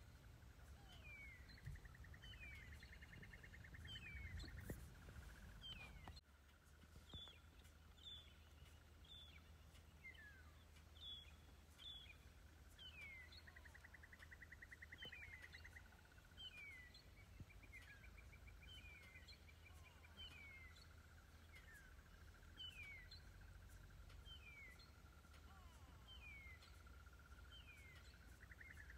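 Faint birdsong: short falling whistled notes repeated about once a second, with a few brief rapid trills, over a steady thin high tone and low background rumble.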